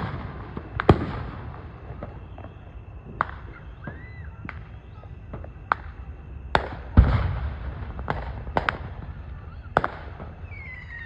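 Fireworks going off: a string of sharp bangs at uneven intervals, each trailed by crackling, with the loudest bang about seven seconds in.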